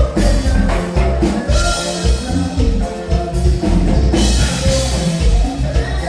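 Live norteño band music with a steady beat on drum kit and bass.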